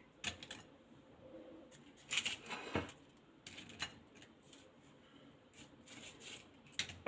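Faint, scattered clicks and crackles of crisp fried beetroot-leaf snacks being picked up and set down on a serving plate.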